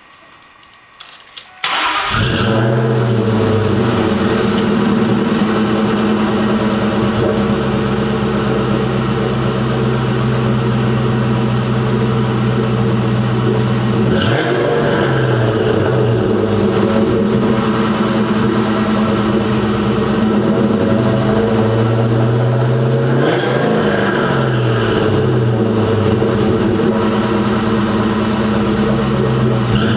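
An engine starts about two seconds in and then runs steadily, its pitch briefly dipping and coming back up twice, once near the middle and once later on.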